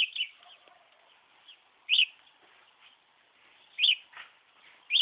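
Budgerigar giving short, sharp chirps, one about every two seconds.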